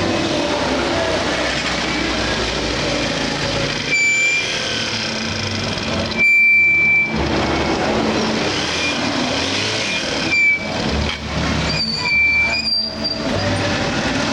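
Road traffic: a steady rumble of engines and tyres, broken by several short, high horn beeps, the longest and loudest about six seconds in.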